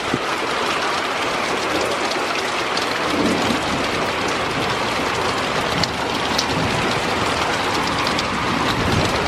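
Heavy thunderstorm rain pouring steadily, with scattered sharp drops ticking close to the microphone.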